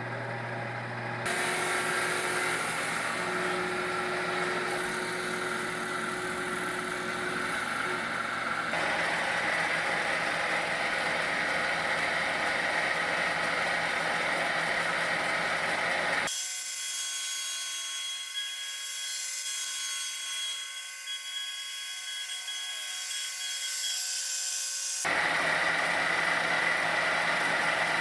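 Sawmill running and its blade cutting a red maple log into boards: a steady mechanical running sound with several steady tones. The sound changes abruptly four times, the deep part dropping out for about nine seconds in the middle.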